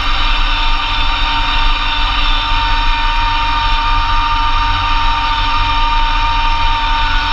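Massey Ferguson GC2300 compact tractor's diesel engine running steadily while driving a Blizzard B48 PTO snowblower, with a steady high whine over the low engine rumble.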